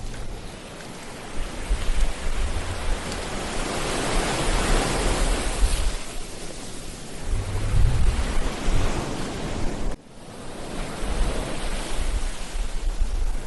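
Ocean waves breaking and washing up the shore as a continuous rushing surf that swells and ebbs, with a low rumble of wind on the microphone. About ten seconds in, the sound drops out abruptly for an instant before building again.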